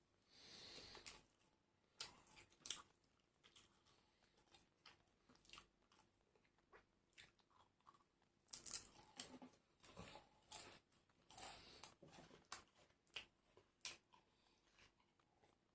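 A person chewing and biting crunchy food close to the microphone: irregular crunches and mouth clicks, with a few longer bouts of crunching about a second in, around nine seconds in and around eleven seconds in.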